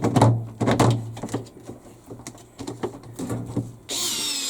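Clicks and knocks of screws and parts being handled against the washing machine, then a cordless power driver starts running steadily about four seconds in, driving in the tub's long fixing screws.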